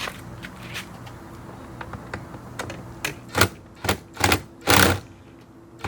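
Light scattered clicks, then four loud short rattling scrapes in the second half, the last the longest: the hand work of taking out the Phillips screws that hold a car's interior door trim.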